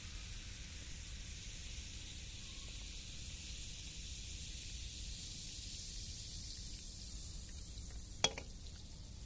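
Small wood fire hissing steadily, with one sharp pop near the end.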